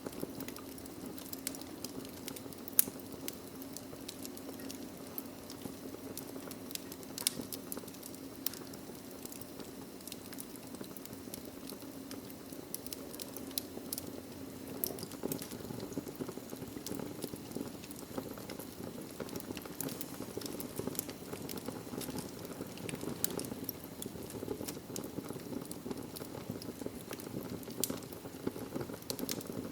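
Wood fire burning in a fireplace: a steady low rush of flame, with frequent sharp crackles and pops from the burning logs at irregular moments, a few of them much louder.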